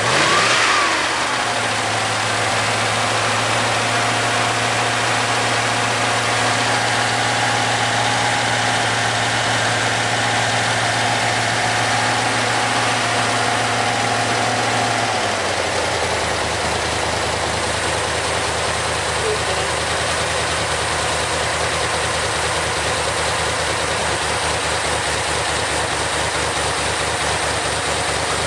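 Tatra 603's air-cooled V8 engine, running again after 20 years standing: a brief rev just at the start, then a steady idle that drops to a lower, slower idle about halfway through.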